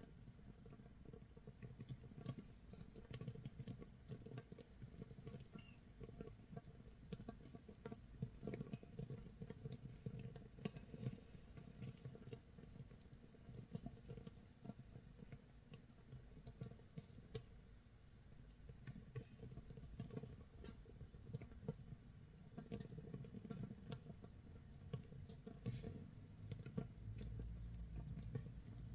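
Makgeolli starter mash (mitsul) fermenting in a jar 24 hours in: countless tiny bubbles popping in a faint, dense crackle, like rain or rice crust toasting.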